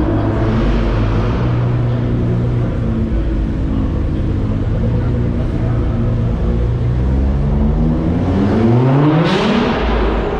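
Car engines idling, then one engine revs up sharply about eight seconds in, rising in pitch, and drops back.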